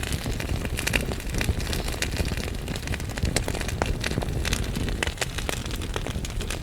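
Wood fire burning in a fireplace, logs crackling with frequent irregular sharp pops over a steady low rumble of the flames.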